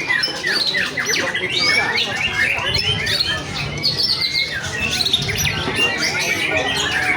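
Many songbirds singing over one another at once, a dense tangle of quick whistles, chirps and trills, as at a songbird singing contest.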